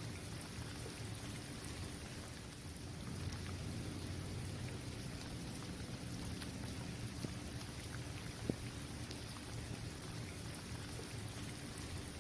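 Steady rain falling on an outdoor basketball court, with scattered individual drops ticking and one sharper drop about eight and a half seconds in. A low, even rumble runs underneath.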